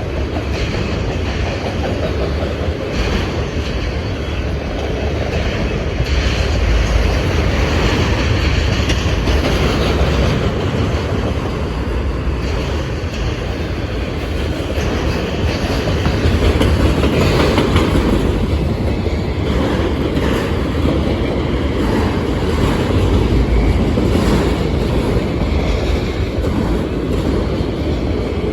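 Union Pacific intermodal freight train rolling past, its wheels clacking over the rails in a steady rumble.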